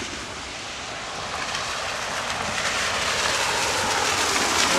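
Heavy rain pouring down in a steady hiss that swells louder over the seconds.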